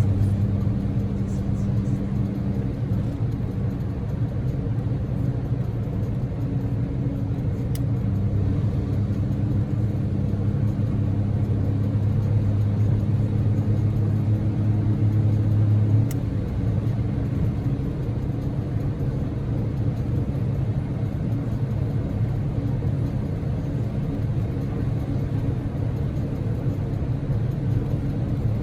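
Daihatsu Move (L150S) with its 660 cc three-cylinder EF-VE engine driving, heard from inside the cabin: a steady engine hum over road and tyre rumble. About halfway through, the engine tone drops away and the road rumble carries on.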